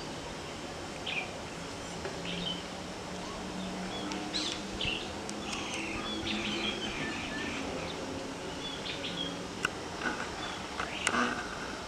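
Small birds chirping, short scattered calls throughout, over a faint steady low hum, with a few sharp clicks near the end.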